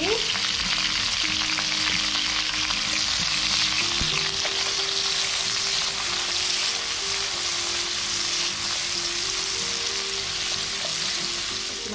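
Sliced onion and chopped garlic sizzling steadily in hot oil in a wok, stirred with a silicone spatula.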